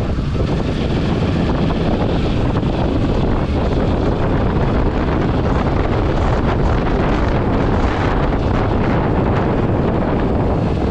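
Wind rushing over the action-camera microphone on a moving motorcycle, with the engine and road noise underneath; a steady, even din.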